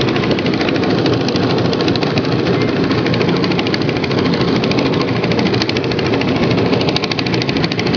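Farm tractor engine running steadily at close range, with a fast, even chugging beat.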